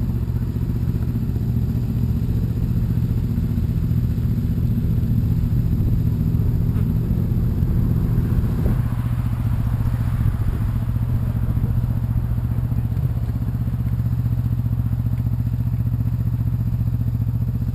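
Sport-bike motorcycle engine idling steadily; part of its sound drops away about halfway through.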